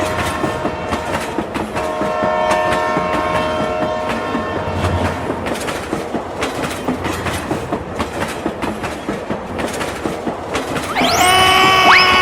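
Train running on rails with a steady clickety-clack of wheels. Its horn sounds in one long steady blast from about two to five seconds in. Near the end comes a short pitched tone that bends up and down.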